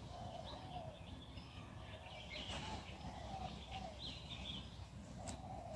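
Birds calling in the trees, many short chirps and warbling calls one after another, over a low steady background rumble.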